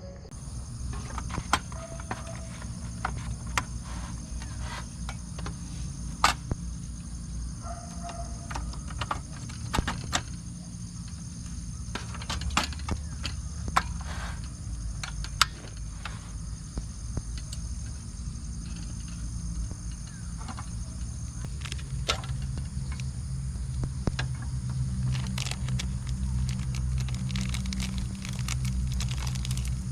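Insects drone steadily at a high pitch over a low rumble, with scattered sharp clicks and knocks throughout. The rumble grows louder near the end.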